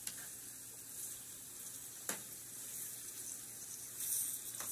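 Ground beef frying in a pan: a steady sizzle that swells near the end, with a sharp click about two seconds in.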